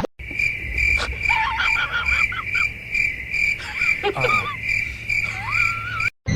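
Steady high-pitched animal chirping, pulsing about twice a second, with several short gliding calls over it; one call rises near the end.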